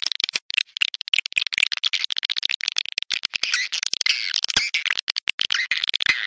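Swiftlets chirping and clicking rapidly in a swiftlet house, a dense twittering of high, quick calls with brief gaps.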